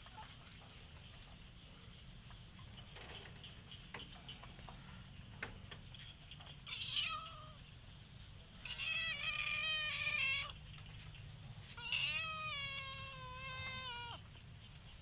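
Domestic cat meowing: a short call about halfway in, then two long, drawn-out meows of nearly two seconds each, each sinking slightly in pitch. A few faint clicks come before them.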